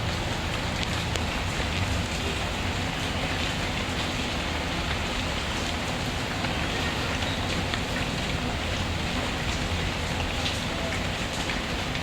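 Steady rainfall, a constant even hiss of rain on surfaces, with occasional faint crackles from a wood fire.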